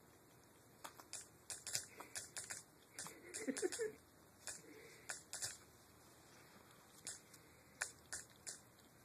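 A cat lapping water, an irregular run of small wet clicks that comes thickest in the first four seconds, then sparser.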